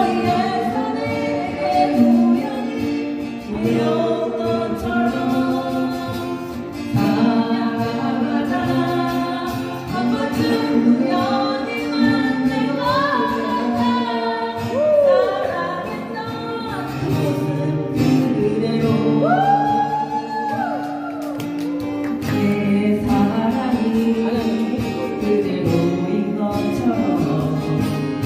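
Music: a song sung by several voices with guitar accompaniment.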